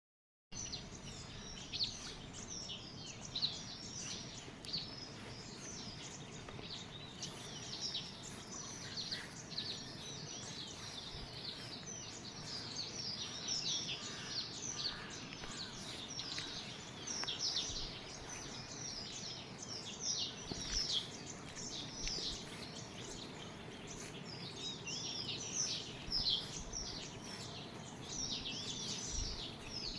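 Many small birds chirping and twittering, a dense chorus of short, high, downward-sliding calls over a steady low background noise.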